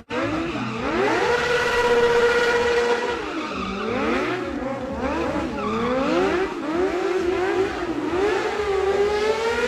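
Motorcycle engine revving: it climbs quickly and holds at high revs for about two seconds, drops, then rises and falls in a string of quick rev swings before holding high again near the end, as in freestyle stunt riding.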